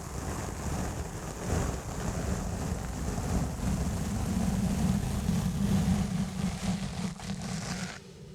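Exfoliation gloves rubbing and scrubbing on a foam microphone cover: a continuous scratchy rustle over a heavy low rumble. It drops away near the end.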